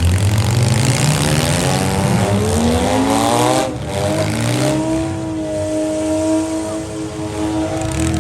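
Demolition derby vehicle engine revving hard: its pitch climbs for about three seconds, drops out briefly, then holds steady at high revs.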